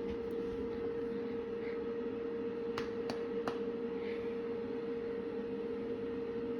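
Steady hum of a running kitchen appliance, with three light clicks close together near the middle.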